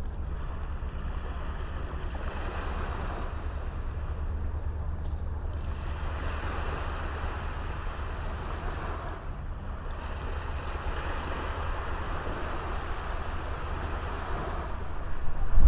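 Sea waves washing up on a small beach, swelling and ebbing every few seconds over a steady low rumble.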